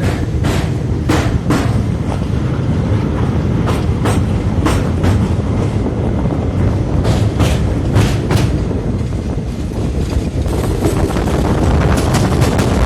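A moving train: a steady low rumble of the wheels on the track, with sharp clacks as the wheels pass over rail joints. The clacks come in ones and pairs, then thicker and faster after about ten seconds.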